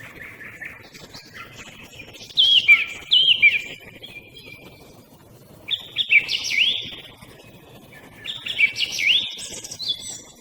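Song thrush singing: three bursts of loud whistled song, each built of a short phrase repeated two or three times, with fainter small birds calling in the background.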